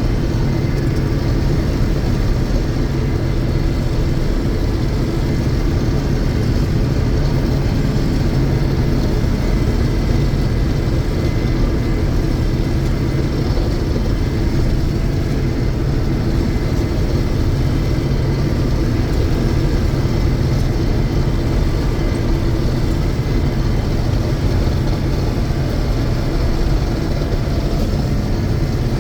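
A 1982 John Deere 6620 Turbo combine running steadily under load while cutting soybeans: its turbocharged diesel engine and threshing machinery make a loud, even drone.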